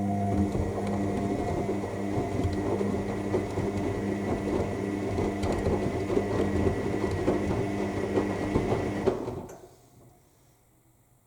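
Washing machine drum turning during the main wash: the motor runs with a steady hum and a thin high whine over the churning of the wet load. It stops about nine seconds in as the drum pauses between tumbles.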